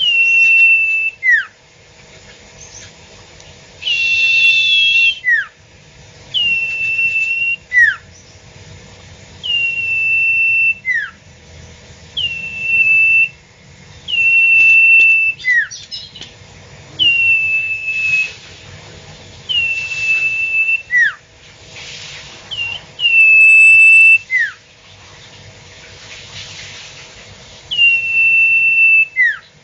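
A sirtu bird calling over and over without pause: each call is a held high whistle followed by a short falling note, repeated about every two seconds.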